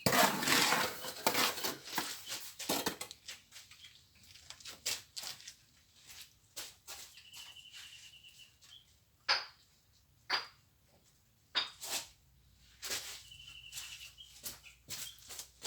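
Scraping and scattered knocks of hand plastering work, the scraping dense at first and then giving way to single knocks. A bird trills twice in the background, each a pulsing high note of about a second and a half.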